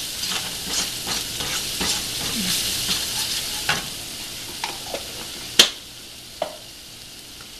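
Chopped ginger, garlic and green chillies sizzling in oil in a nonstick pan while a wooden spatula stirs and scrapes through them. The stirring stops a little over halfway, with one sharp knock, and then only a quieter sizzle is left.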